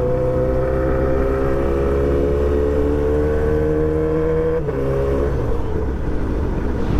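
Yamaha R6 sport bike engine pulling on the road, its pitch climbing slowly. About four and a half seconds in the note dips briefly, then breaks up into a rougher, less even sound.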